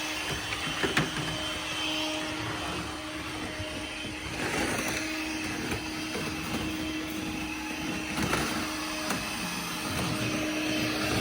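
Corded Dirt Devil vacuum cleaner running steadily: a constant motor hum with a steady airflow hiss.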